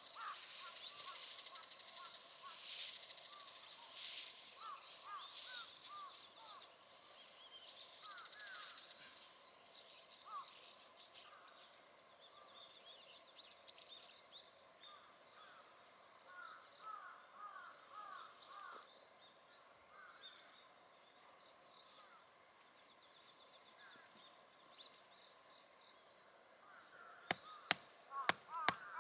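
Small birds chirping repeatedly in short, quick calls. A rustling noise runs through the first ten seconds or so, and a quick series of sharp clicks or knocks comes near the end.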